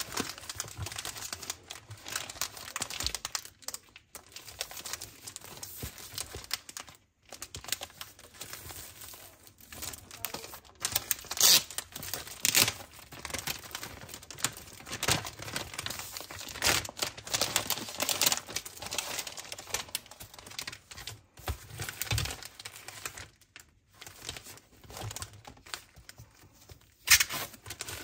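Packaging being unwrapped by hand: continuous crinkling and rustling with bursts of tearing and sharp crackles, one loud crack near the end.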